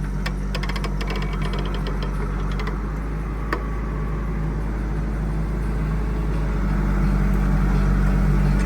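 Diesel engine of a heavy machine running steadily, with a quick rattle of clicks in the first few seconds and the engine getting louder near the end.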